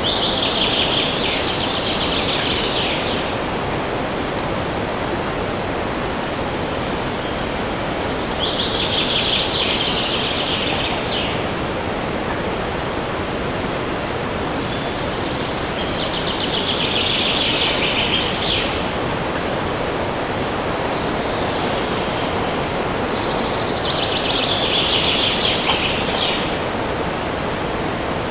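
Steady rushing of wind in the trees, with a songbird singing a short, rapid trilled phrase four times, about every seven or eight seconds.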